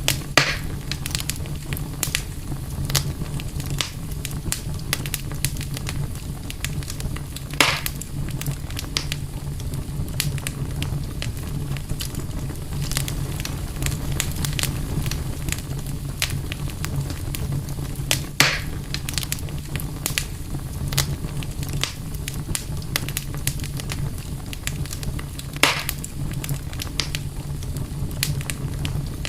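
Wood campfire crackling steadily with many small snaps and four louder pops spread through, over a steady low rumble.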